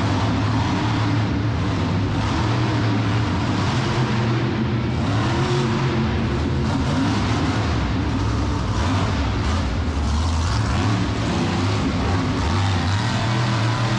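Monster truck engine running loud and revving, its pitch shifting up and down.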